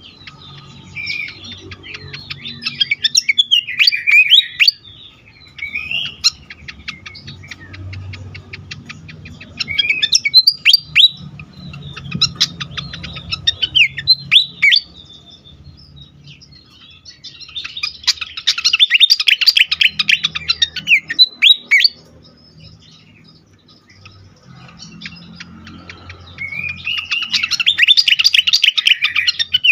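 Sikatan kipas (fantail flycatcher) singing in agitated, full song: phrases of rapid high chirps, downward sweeps and trills, with short pauses between them.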